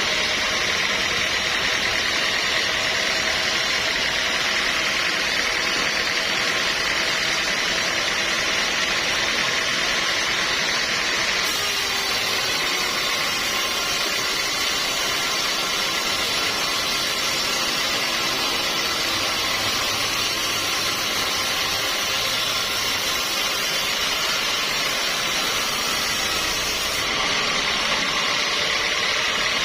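Sawmill machinery running steadily: a dense, even mechanical noise that does not let up.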